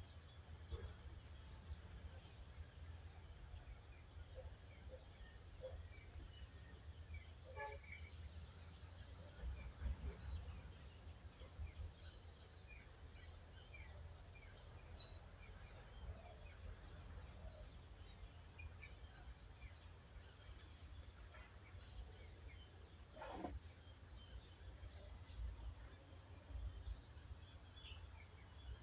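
Faint birdsong: many small birds giving short, high chirps and tweets scattered through, over a steady low rumble. Near the end one brief sharp sound stands out.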